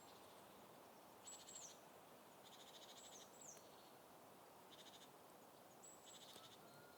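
Faint birdsong over a quiet background hiss: short high calls that slide downward and quick high trills, coming in scattered bursts a handful of times.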